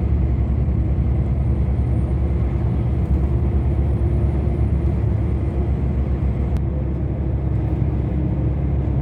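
Semi-truck on the road, heard from inside the cab: a steady low rumble of engine and tyres, with one faint click about six and a half seconds in.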